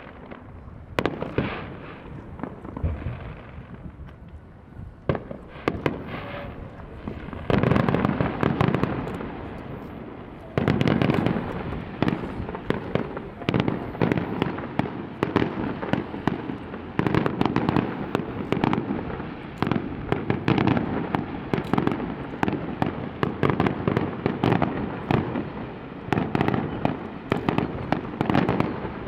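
Aerial fireworks going off: a few separate bangs at first, then from a quarter of the way in rapid volleys of bursts and crackling that keep on until the end, heard through the camera's built-in microphone.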